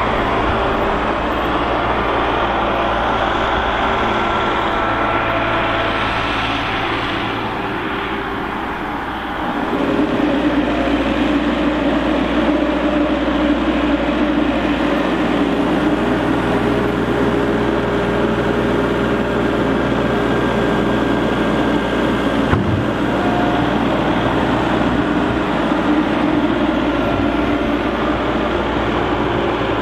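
Heavy diesel vehicle engine running steadily under work. It eases slightly, then rises in load and loudness about ten seconds in, with a single sharp knock about two-thirds of the way through.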